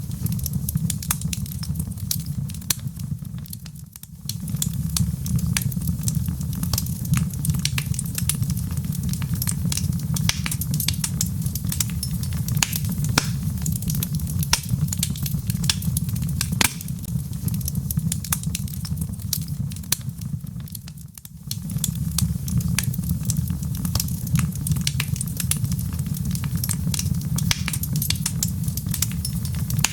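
Log fire burning, with many sharp crackles and pops of burning wood over a steady low rumble of the flames. The sound briefly drops away and returns about 4 seconds in and again about 21 seconds in.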